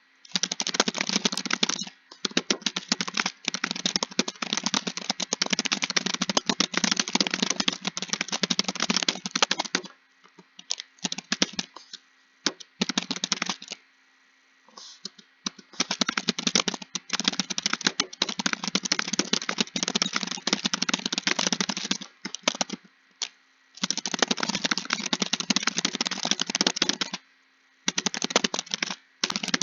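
Fast typing on a computer keyboard: long runs of dense key clicks broken by a few short pauses.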